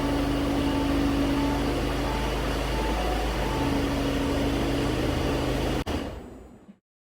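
Steady mechanical hum with a low drone and a faint, evenly repeating tone; it cuts off suddenly about six seconds in and fades to silence.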